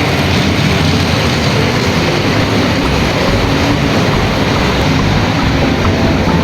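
Toy train running along its track: a steady, loud mechanical noise without breaks.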